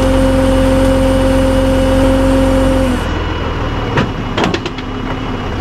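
Truck engine running with a steady whine that stops suddenly about halfway through. A few sharp knocks follow.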